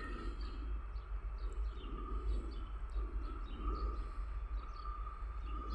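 Birds chirping over a steady low rumble from a distant 2TE116 diesel locomotive working under load as it starts a heavy train.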